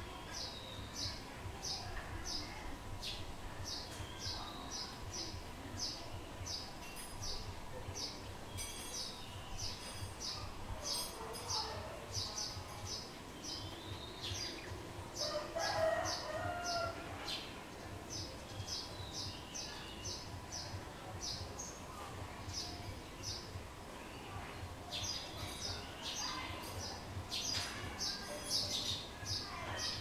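Wild birds calling: short, high chirps repeat rapidly, a few a second, with one louder, lower call lasting about a second and a half about halfway through.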